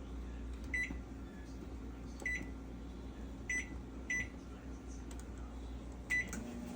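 Microwave oven keypad beeping five times at uneven intervals as its buttons are pressed, over a low steady hum.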